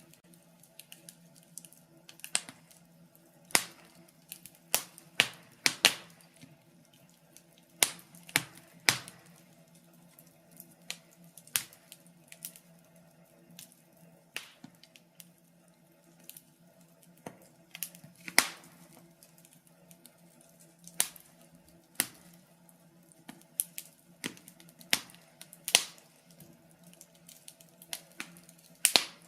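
Wood fire crackling in a fireplace: irregular sharp pops and snaps, a loud one every second or two with smaller crackles between, over a faint steady low hum.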